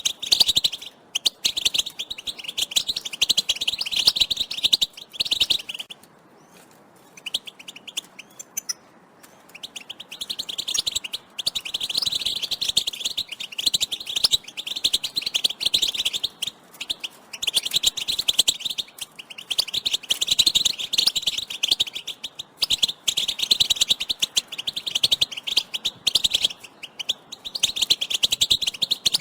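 A group of European goldfinches calling together: dense, rapid twittering chatter of the kind played to stir a male goldfinch into song, with a lull of a few seconds about six seconds in.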